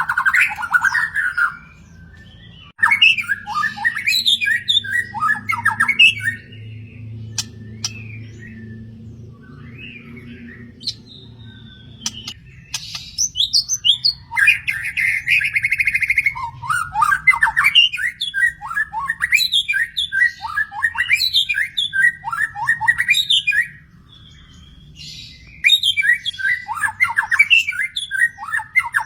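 Murai, a Copsychus songbird, singing in long runs of rapid, varied whistled and chattering phrases. The song pauses for several seconds about a fifth of the way in, then resumes.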